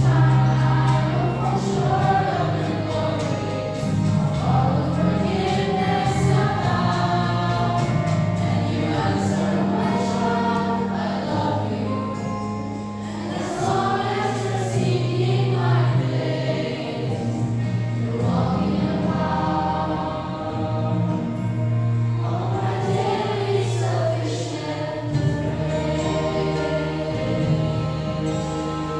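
A choir singing a gospel-style song over sustained bass accompaniment.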